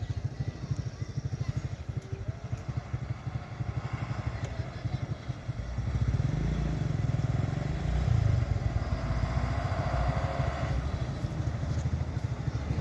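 A motor vehicle's engine running with a rapid, even low pulsing, getting louder from about six seconds in.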